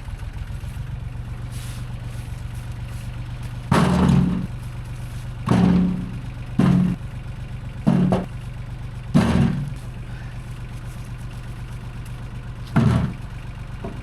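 A vehicle engine idling steadily, with six loud, irregular thuds of firewood being thrown into the vehicle.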